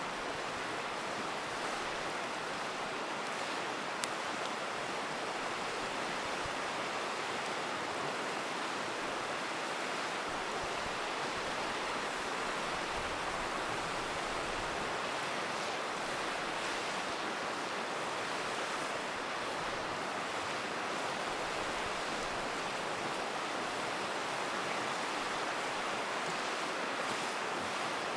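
Steady rush of a river, with an occasional sharp crackle from a wood campfire, the clearest about four seconds in.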